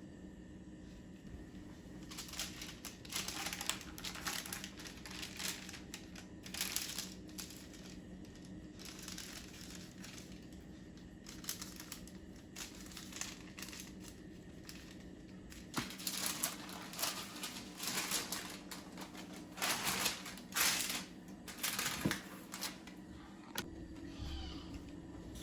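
Irregular bouts of crinkling and rustling, as material is handled by hand, loudest in two stretches early and late, over a steady low hum.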